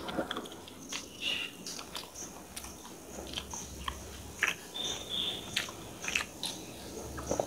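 Close-miked chewing of a mouthful of chicken from a chicken korma, with irregular small mouth clicks and smacks.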